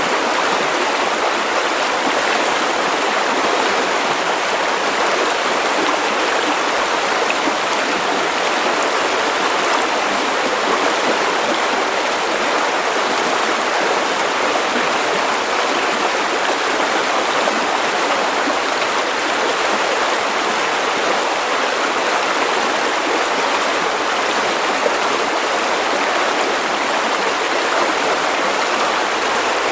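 River water running over stones, a steady rushing and babbling.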